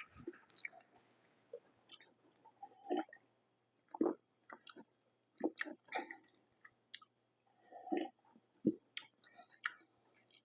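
A person chewing food with wet mouth clicks and smacks at irregular intervals.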